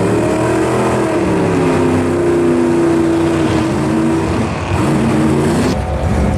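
A car engine running under throttle, its pitch rising, holding, dipping and rising again, then breaking off suddenly near the end.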